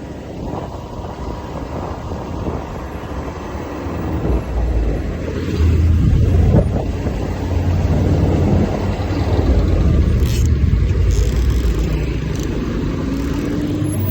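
250 cc dirt bike engine running under a heavy low rumble of wind and motion noise. It gets louder about five seconds in, and the engine note rises near the end.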